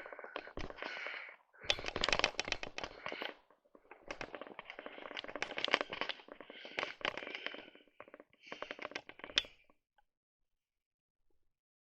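Footsteps crunching through deep, dry fresh snow, about one crackling step a second, stopping about ten seconds in.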